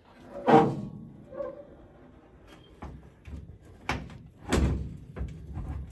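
A series of knocks and thuds from something being moved by hand: a loud knock about half a second in, a few lighter knocks, then a heavy thud around four and a half seconds in and some smaller knocks near the end.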